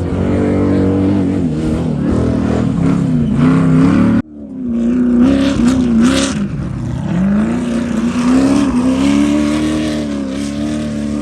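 Off-road race car engine revving hard, its pitch rising and falling over and over as it works through the course. The sound breaks off abruptly about four seconds in and picks up again with another engine revving.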